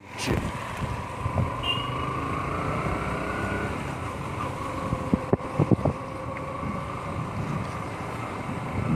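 A motor vehicle's engine running steadily, with a few short sharp knocks a little past the middle.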